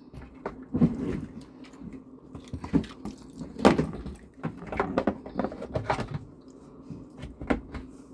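Irregular knocks, clunks and short scrapes of objects being handled, with the loudest knock a little over three and a half seconds in.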